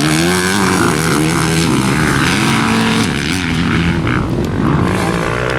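Several motocross bikes racing around the track, their engines revving up and down and overlapping as riders accelerate and back off.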